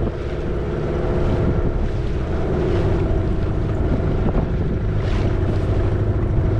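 Dinghy outboard motor running steadily, with wind buffeting the microphone and water rushing past.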